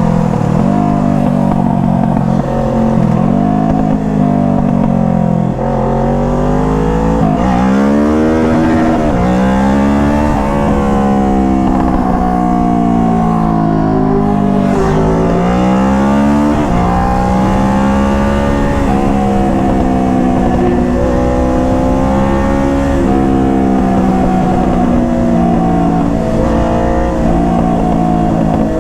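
Motorcycle engine under way, its pitch climbing and dropping repeatedly as it accelerates and changes gear, then settling to a steadier cruise over the second half.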